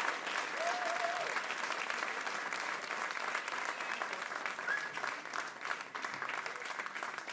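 A crowd applauding, many hands clapping at once, with a few voices calling out. The clapping thins and gets quieter toward the end.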